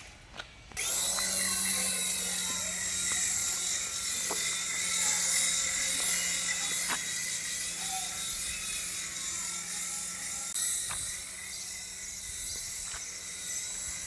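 A remote-control toy's small electric motor starting about a second in and running steadily with a constant whine, with a few sharp clicks along the way.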